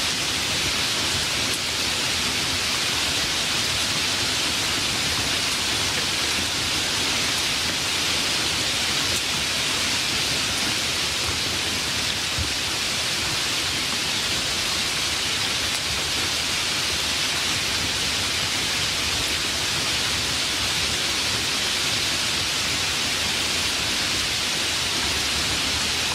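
Rain falling steadily, an even hiss without thunder or separate drops.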